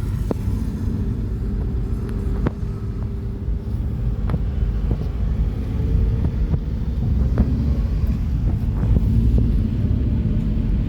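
Steady low rumble of engine and road noise from a moving vehicle, with a few faint clicks and knocks.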